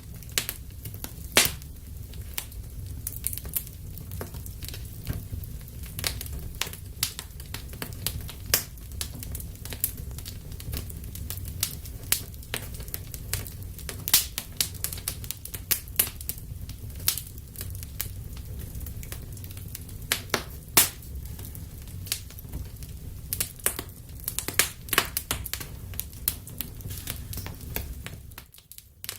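Wood fire burning in a fireplace: irregular sharp crackles and pops over a steady low rumble of the flames. The sound dips briefly near the end.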